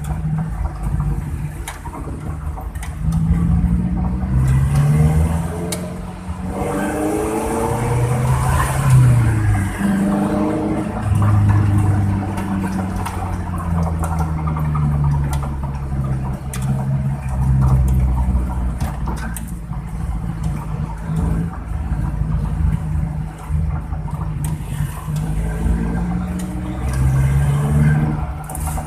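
Suzuki Carry's engine and exhaust growling deeply like a bus while driving. The pitch climbs and drops again several times as it accelerates and shifts gears.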